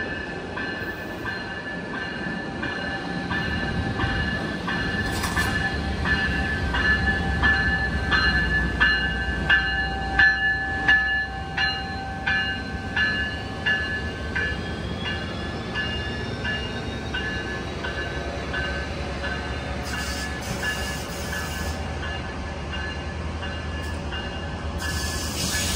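A passenger train running past with a steady rumble. Over it an evenly repeating ringing clang comes a little under twice a second; it is loudest mid-way and fades out in the second half.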